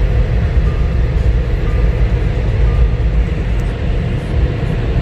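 Touchless car wash air-dryer blowers running, heard from inside the car's cabin: a loud, steady rush of air, heaviest in the low end.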